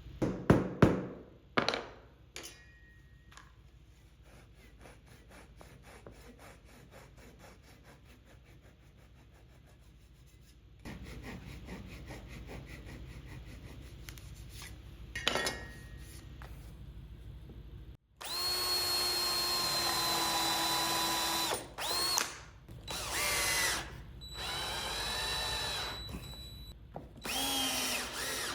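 A few sharp wooden knocks near the start. In the second half, a cordless drill-driver runs in several bursts of steady whine while assembling the router-table fence, its pitch sagging at the end of some bursts as the load comes on.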